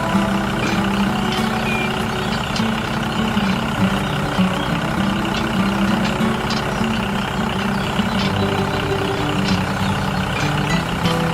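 Small electric motors of a DIY mini tractor running steadily, their buzzing pitch stepping up and down, with a few light clicks.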